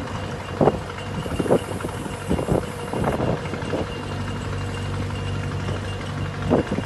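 An engine running steadily at idle, a low even hum, with a few scattered knocks and clunks over it.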